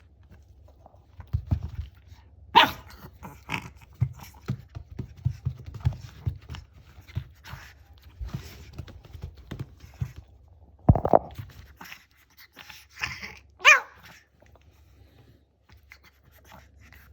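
Shih Tzu making its short growly 'gao' play-roar calls: three louder brief calls, about two and a half seconds in, near eleven seconds and near fourteen seconds, with softer small breathing and mouth sounds between them.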